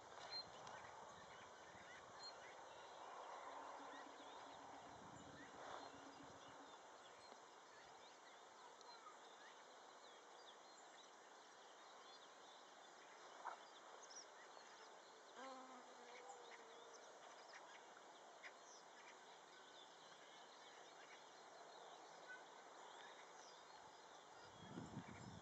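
Near silence: faint outdoor background with scattered distant bird chirps and a brief faint call about halfway through.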